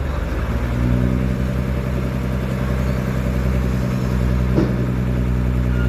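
A heavy truck's engine running steadily at a low, even speed, as on a tow truck at work during a recovery. A single short knock about halfway through.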